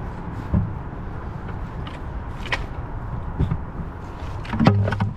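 Footsteps and scattered knocks and rustles of someone walking down a bank, over a steady low rumble, with a louder cluster of knocks and a short low pitched sound near the end.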